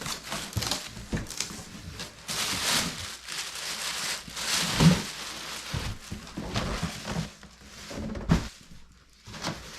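Rustling and crinkling of packing material as parts are taken out of a motorcycle fairing kit's box, with a couple of thumps, the loudest about five seconds in and another about eight seconds in.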